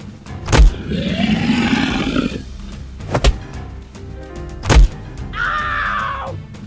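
Cartoon animal-fight sound effects over background music: heavy hits about half a second in and again near three and five seconds, a long animal roar right after the first hit, and a shorter, higher animal cry that falls away near the end.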